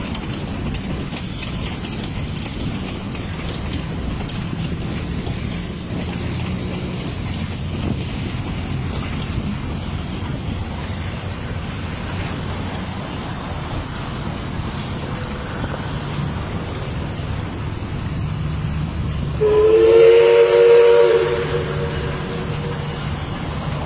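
1947 Baldwin Mikado steam locomotive running with a steady rumble, then about three-quarters of the way in it sounds its steam whistle in one blast of about two seconds, several notes at once.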